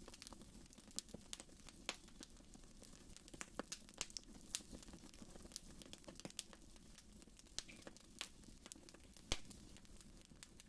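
Wood fire burning in a fireplace: faint, irregular crackles and pops, the sharpest about nine seconds in, over a soft steady background.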